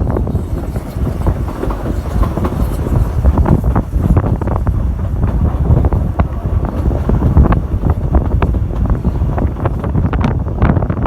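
Narrow-gauge railway train running, with irregular clicks and knocks from the wheels on the track, over heavy wind buffeting the microphone.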